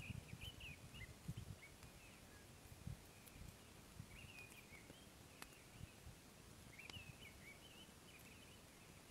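Faint outdoor ambience: small birds chirping in short bursts several times, with a few scattered faint clicks and a low rumble underneath.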